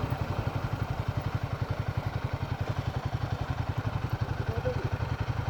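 Royal Enfield Himalayan 450's single-cylinder engine idling with a steady, even thump of about a dozen beats a second.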